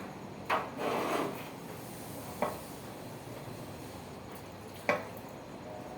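Truck valve rocker arm parts being handled during cleaning: three sharp knocks about two seconds apart, with a short rubbing, scrubbing sound about a second in.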